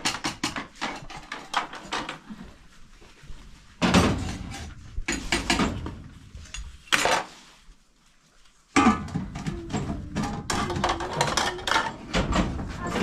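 Dishes and cutlery clattering: many quick clinks and knocks of tableware handled and set down, in bursts, with a short lull about two thirds of the way through.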